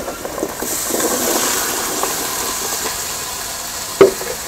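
Cubed sweet pumpkin tipped into a karahi of hot spice masala, setting off a sizzling hiss that swells about a second in and slowly dies down. A single knock against the pan comes near the end.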